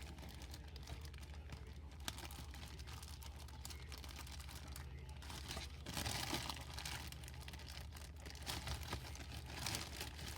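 Faint irregular scraping and rustling from hands working a stuck truck battery, over a steady low hum.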